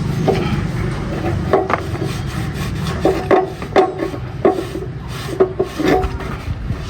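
Workshop work noise: a series of irregular sharp knocks and clanks, about a dozen in a few seconds, each ringing briefly, over a low hum that fades out in the first couple of seconds.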